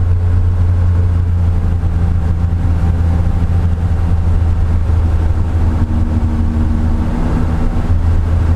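Porsche 911 SC race car's air-cooled flat-six engine running at speed, heard from inside the cabin as a loud, steady low drone. The note shifts slightly about six seconds in.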